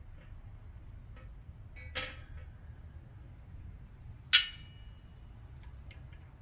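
Two sharp metal clinks about two seconds apart, the second louder and ringing briefly, with a few faint ticks: steel parts and tools being handled while new needle bearings are pressed into an LS roller rocker arm.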